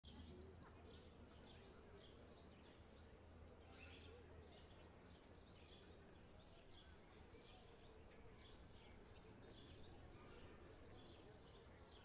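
Faint birdsong: small birds chirping over and over, a few short high chirps a second, above a low steady hum of outdoor background noise.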